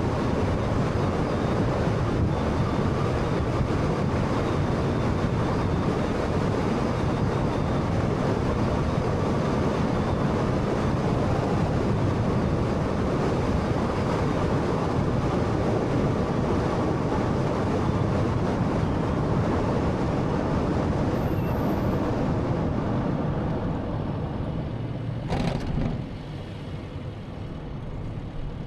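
Road noise from a 2013 Honda Fit being driven: a steady rush of tyres and engine that eases off near the end. A brief knock sounds just before it drops to a quieter level.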